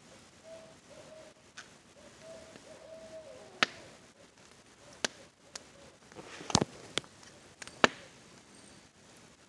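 An owl hooting, a run of short level hoots in the first three and a half seconds. Sharp pops and crackles of a wood campfire follow, about half a dozen, the loudest about six and a half seconds in, over a faint steady hiss of rain.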